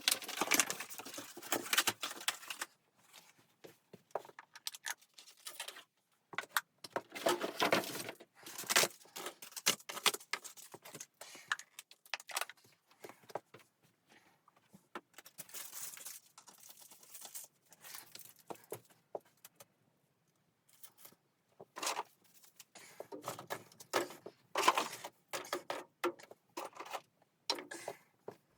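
Irregular handling noises: clusters of rustling, crinkling and clicking in several bursts with short pauses between them.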